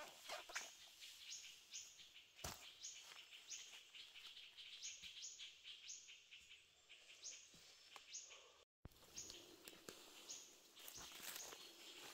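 Faint forest ambience: a small bird chirping over and over in short high notes, roughly two a second, with a few soft knocks and rustles of dry leaves.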